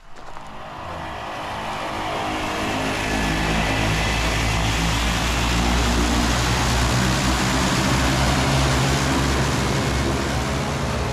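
Float plane's engine and propeller, building up over the first few seconds and then running steadily at high power.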